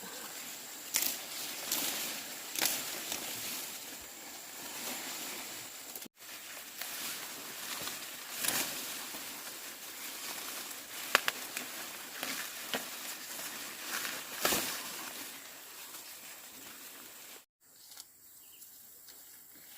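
Rustling with scattered sharp snaps and crackles, the sound of something being handled or moved through. It drops out completely for an instant twice, once about six seconds in and again near the end.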